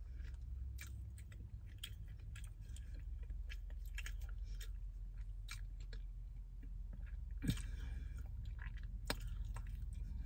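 A person chewing a mouthful of saucy Philly chicken sandwich: scattered small wet mouth clicks, a sharper one about seven and a half seconds in, over a low steady hum.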